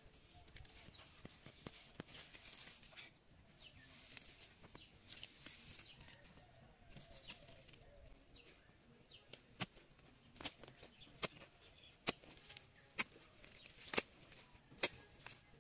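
A series of sharp knocks or taps, sparse at first and then about one a second in the second half, over faint rustling.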